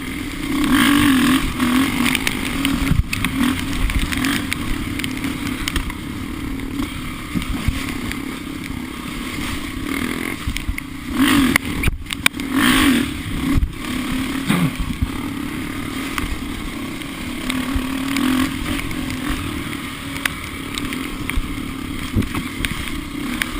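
Off-road vehicle engine running steadily on a trail ride, with a few short surges of revving about halfway through.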